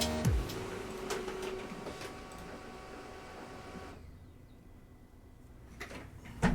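A music sting ends at the very start, followed by faint rustling and scattered light clicks, with a few sharper clicks near the end.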